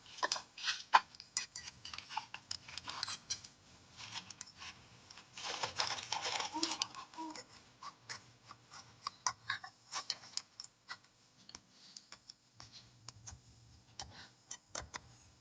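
Irregular small metal clicks, taps and scrapes of hand tools and loose parts being handled during a scooter engine teardown, with a longer rasping scrape about five to six seconds in.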